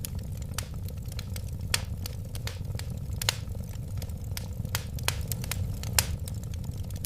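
Wood fire burning, with irregular sharp crackles and pops over a steady low rumble. The strongest pops come about two, three and six seconds in.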